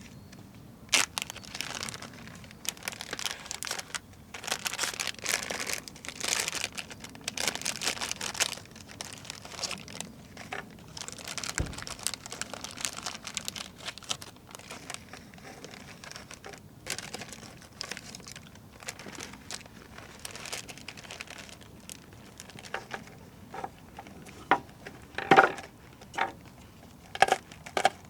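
Crinkling and rustling of something crinkly being handled, in bursts over the first several seconds, then a run of sharp clicks and light knocks near the end, one with a short ring.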